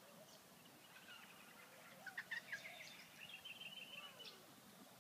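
Faint birdsong: a quick cluster of sharp chirps about two seconds in, then a short trill.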